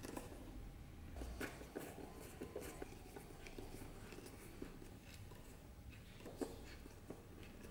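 Quiet, scattered light clicks and taps from small objects being handled, at irregular intervals, with a sharper tap about six seconds in.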